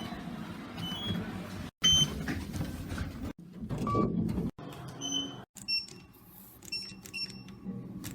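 Elevator button beeps and short chime tones from a rapid series of different lifts, with a low machinery hum between them; a quick run of short beeps comes in the second half.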